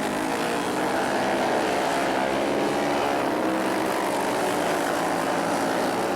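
Several flat track racing motorcycles running hard around the track, their engines overlapping and rising and falling in pitch.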